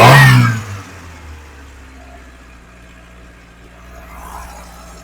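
Carburetted VW GTI four-cylinder engine blipped briefly at the start, its revs falling away, then idling steadily while the carburettor's idle mixture screw is being set.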